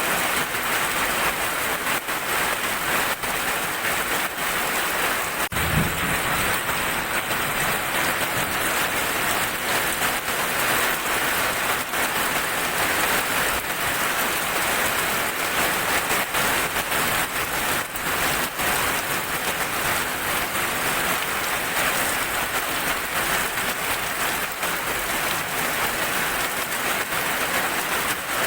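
Steady rain falling on a surface, an even hiss with scattered individual drop ticks. A brief low thump comes about six seconds in.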